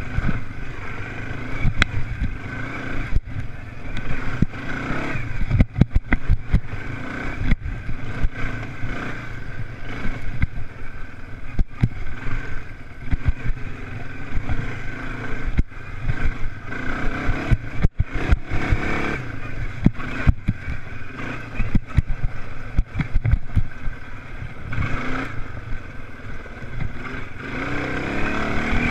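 Motocross engines racing, revving up and down, with a rise in revs near the end. Many short knocks run through it.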